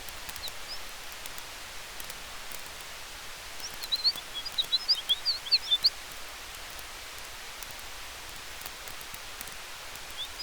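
Campfire crackling faintly over a steady hiss of wind through trees. About four seconds in, a rapid run of high bird chirps lasts about two seconds and is the loudest thing heard.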